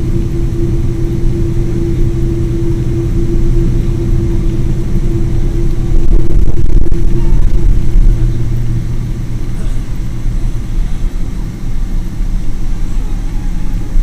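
Boeing 777 jet engines running: a loud low rumble with a steady hum, swelling briefly about six seconds in.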